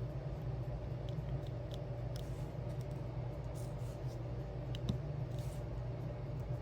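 Faint small ticks and taps of diamond-painting gems being picked up and pressed onto a sticker, a few scattered through, over a steady low hum.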